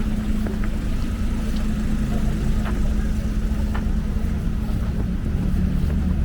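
Steady low rumble of road traffic, with a continuous engine hum and a few faint ticks.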